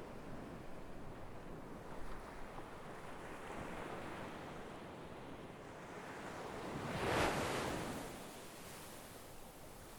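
Sea waves washing ashore in a steady hiss of surf, with one larger wave breaking about seven seconds in and its wash fading away.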